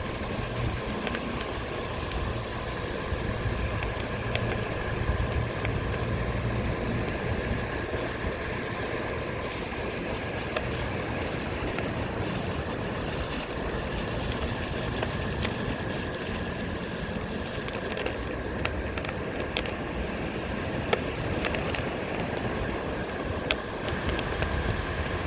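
Onewheel electric board riding along the beach: its hub motor gives a steady whine, while wind buffets the microphone and surf runs underneath. Shells crunch under the tyre as scattered sharp clicks, more often toward the end.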